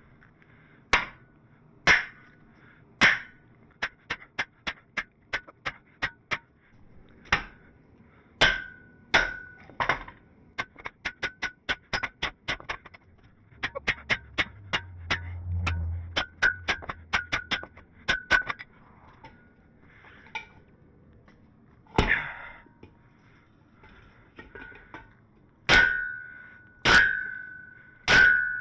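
Hammer blows driving a tapered steel mandrel into a hot, buckled square steel tube to straw it back into shape. Heavy single strikes alternate with runs of quick, lighter taps, and several of the blows leave a short metallic ring. A low hum is heard for about two seconds midway.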